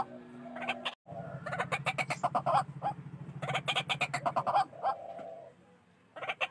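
White-breasted waterhen calling in fast runs of harsh repeated notes, with a low rapid pulsing beneath them for the first few seconds. The calls fade out about a second before the end.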